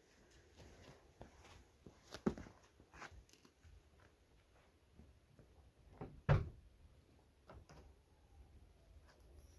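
Tools being got out: scattered light clicks and knocks of things handled, with two louder thuds about two and six seconds in.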